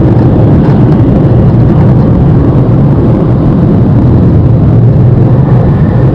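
Car wash air-dryer blowers running at full blast: a loud, steady rush of air.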